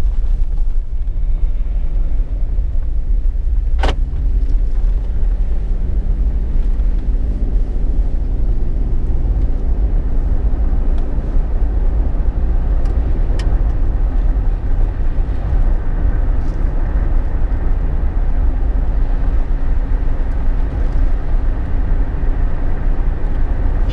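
Steady low road and engine rumble heard inside a Jeep Wrangler JK's cabin while driving, with a single sharp click about four seconds in.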